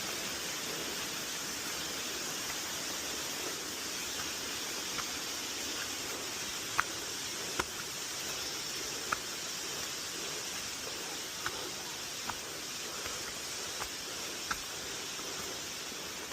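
Steady rushing of a stream or waterfall, an even hiss-like wash of water noise. About eight short sharp clicks stand out over it at irregular intervals, the loudest a little before the middle.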